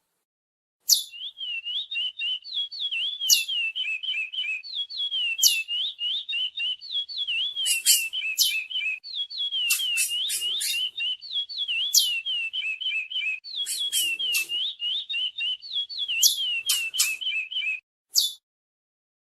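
Curió (chestnut-bellied seed finch) singing one long, fast warbling phrase of quick, clear notes mixed with sharp high chips. It starts about a second in and stops shortly before the end, with one more note after a short pause.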